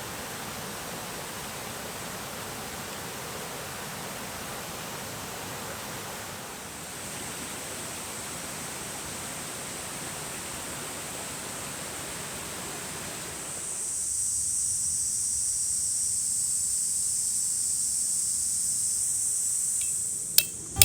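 Steady rain hiss, which drops away at about 14 seconds as a loud, even, high-pitched summer insect drone, such as a cicada chorus, takes over. Near the end a few sharp knocks begin.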